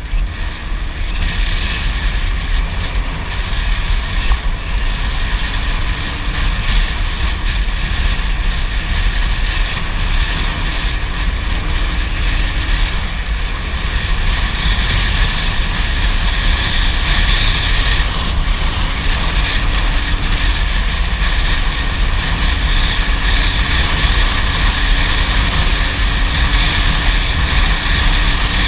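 Bashan BSR motorcycle's 167FMM single-cylinder CG engine running steadily at top speed, with heavy wind on the microphone. The engine is making an abnormal noise that it has started to produce at speed.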